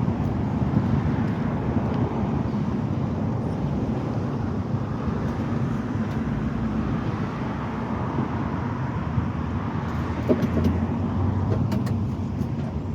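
A vehicle engine running steadily with a low hum, and a few light clicks near the end.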